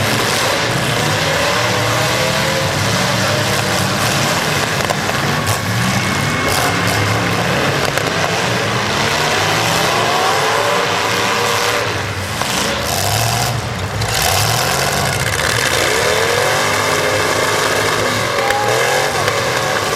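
Demolition derby cars' engines revving up and down over a loud, steady din, the pitch rising and falling again and again.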